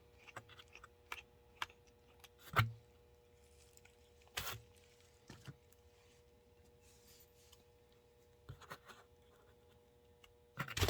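Scattered small clicks and taps of a plastic HO-scale model locomotive and small hand tools being handled, with a faint steady hum beneath; the loudest knocks come about two and a half and four and a half seconds in.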